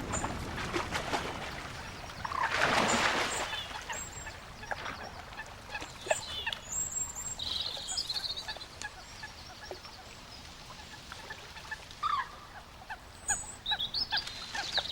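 Birds calling outdoors: short high chirps scattered throughout, with a louder rough burst about two and a half seconds in.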